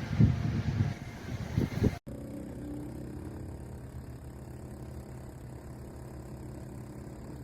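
Low rumble with a few heavy thumps, then a sudden cut to a steady mechanical hum with several held low tones.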